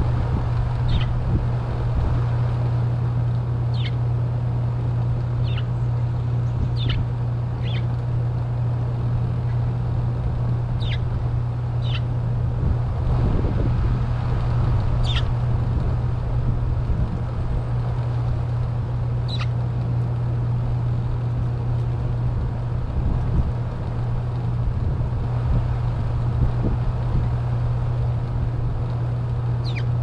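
Short bird chirps, each a quick downward note, sound singly and irregularly every second or few. Under them runs a steady low hum.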